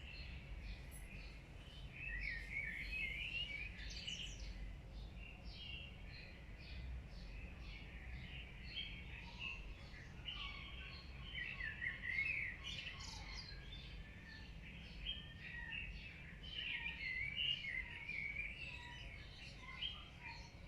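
Many birds chirping and calling at once, a dense chorus of short chirps and warbles, over a steady low rumble.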